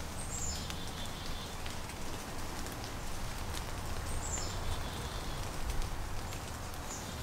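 A songbird singing twice, about four seconds apart: a high phrase that falls in pitch and ends in a short trill. Underneath is a steady low rumble with faint scattered ticks.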